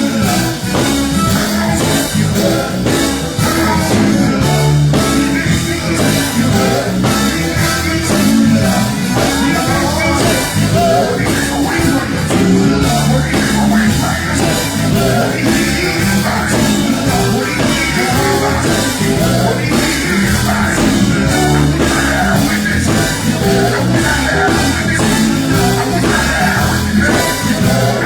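A live gospel band playing loudly with a driving drum beat and amplified instruments, the music going on without a break.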